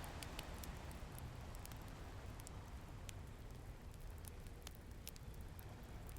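Wood fire crackling, with many small irregular pops and snaps over a steady low rush of ocean waves.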